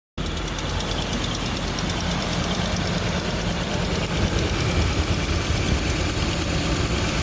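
The engine of a 2008 Mercury Mountaineer idling steadily, cutting in suddenly just after the start, without the power-steering-type whine now that a seized, unlubricated belt pulley has been replaced.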